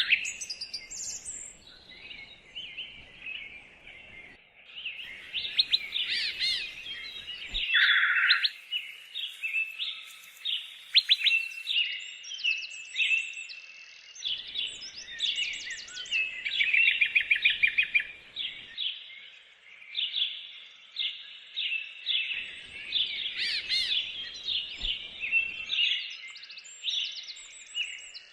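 Songbirds chirping and singing in a dense, continuous chorus of short chirps and rapid trills.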